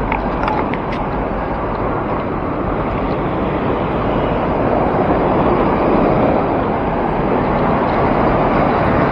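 Steady rush of wind and road noise while riding a bicycle in city traffic, growing slightly louder toward the end.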